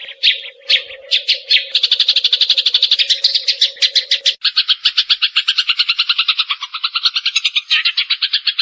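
Eurasian tree sparrow chattering in agitation, the 'fighting' call: a few separate sharp chirps, then a fast unbroken run of short chirps at about a dozen a second.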